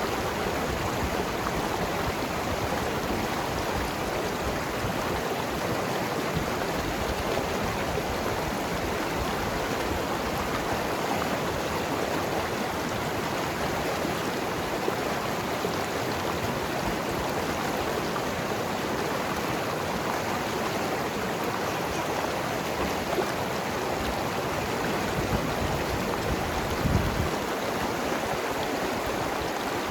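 Mountain river tumbling over rocks, a steady rushing and gurgling of water. Near the end comes one brief low thump.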